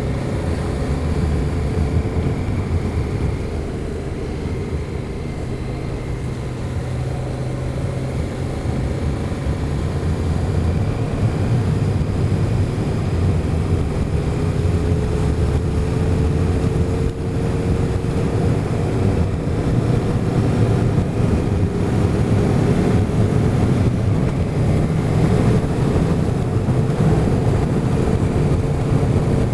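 Motorcycle engine running steadily under way, its note rising slowly through the second half as the bike gathers speed.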